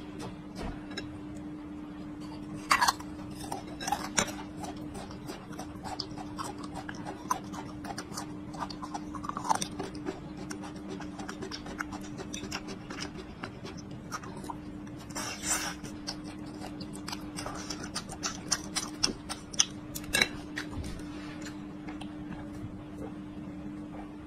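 Close-up chewing of raw whole garlic bulbs and rice, with irregular crisp crunches and wet mouth clicks, a few much louder than the rest. A steady low hum runs underneath.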